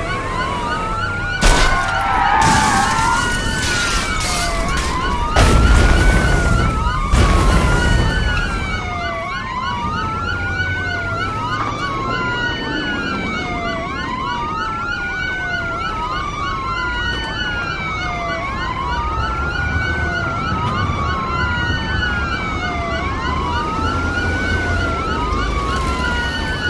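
Police sirens wail, rising and falling about every two seconds. Loud crashing impacts land in the first eight seconds, the biggest and longest about six seconds in, as the chased car crashes.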